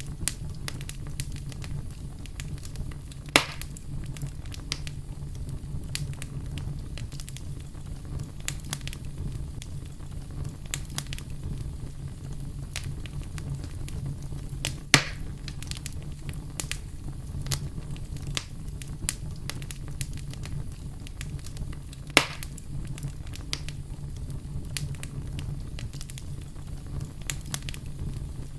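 Wood fire crackling steadily over a low, even rumble, with frequent small snaps and three louder pops spread through the stretch.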